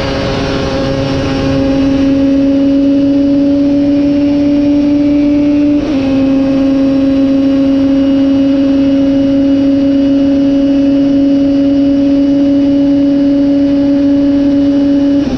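Racing motorcycle engine at high revs under full throttle, its pitch climbing slowly; a quick gearshift about six seconds in, then it runs flat out again at a steady pitch until the throttle closes near the end.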